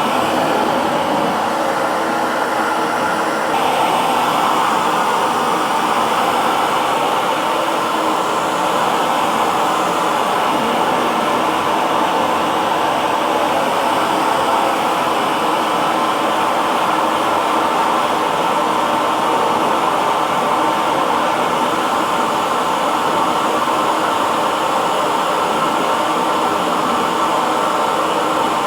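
Hair dryer blowing steadily: an even whooshing hum with a faint motor whine. The tone shifts slightly brighter about three and a half seconds in.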